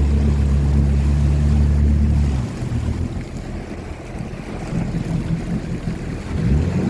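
Motorboat engine running at a steady speed, then throttled back about two and a half seconds in so that its hum drops away under the rush of wind and water, picking up again with a rising tone near the end.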